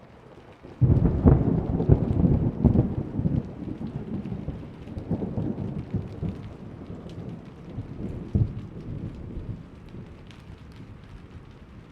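A sudden crack of thunder about a second in, rolling on in low rumbles that swell again twice and fade over the next several seconds, over steady rain.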